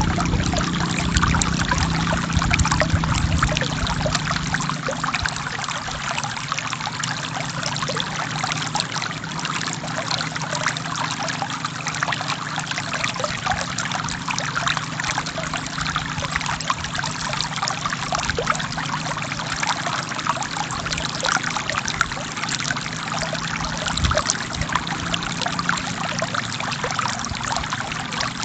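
Forest stream flowing steadily, a continuous rush of water with fine trickling and splashing, a little louder in the first few seconds.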